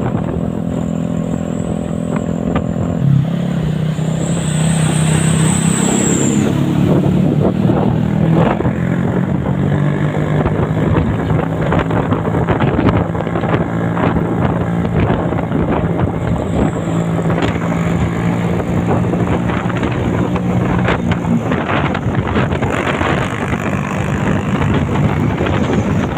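Diesel truck engine running under load, with a steady low drone, rattly clatter and a brief high whistle about five seconds in.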